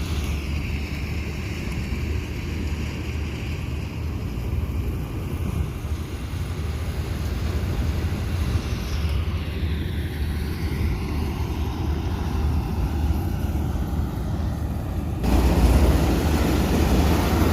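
Combine harvester running with a steady, deep engine drone. It gets suddenly louder near the end.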